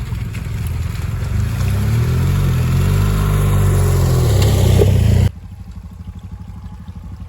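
Dual-sport motorcycle engine running on and off the throttle, its pitch rising and easing off. About five seconds in the sound drops abruptly to a much quieter, even putter.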